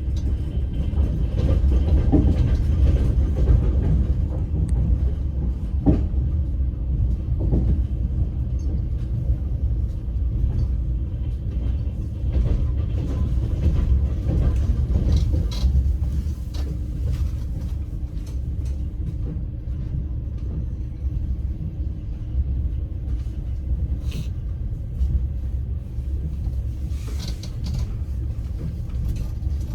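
Moving passenger train heard from inside the carriage: a steady low rumble from the running gear, with occasional knocks and clatter of the wheels on the rails.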